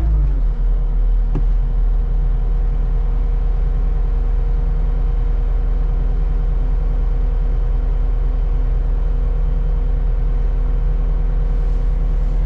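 Skid steer engine running at a steady speed, a constant low drone, with one faint tick about a second and a half in.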